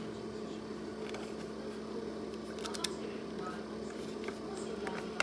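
Portable compressor fridge running with its cooling fans, a steady hum. A few small clicks sound about three seconds in and again near the end.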